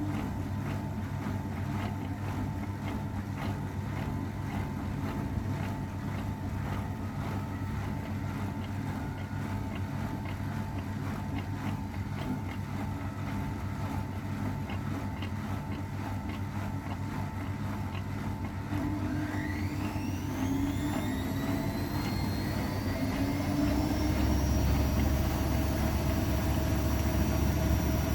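AEG Öko-Lavamat 693 washing machine running steadily, then its motor speeding up with a rising whine about two-thirds of the way through as the drum winds up into a spin. The whine settles at a higher pitch and the machine gets louder near the end.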